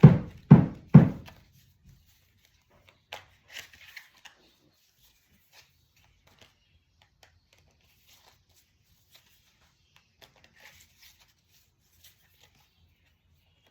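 Tarot cards being handled: a run of dull thumps, about three a second, stops about a second in, followed by faint scattered clicks and soft rustles of the cards.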